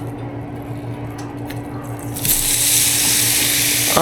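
Ground turkey sizzling in a hot pan, starting suddenly a little over two seconds in as it hits the pan. Before that, a steady low hum.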